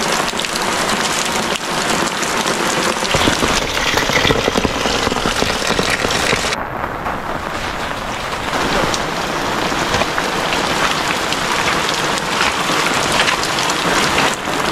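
Rain falling steadily, a dense patter of drops hitting surfaces, dulling briefly in the middle.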